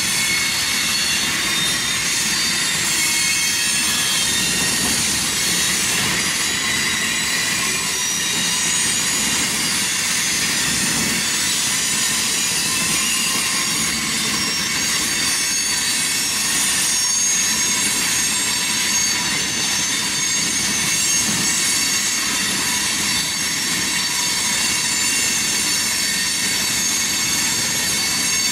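Freight cars of a mixed manifest train (tank cars, boxcars, covered hoppers) rolling steadily past: continuous wheel-on-rail noise with a high-pitched wheel squeal running through it.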